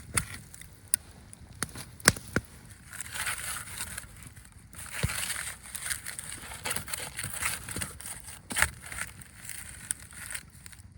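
Rustling and handling sounds with scattered sharp snaps and clicks.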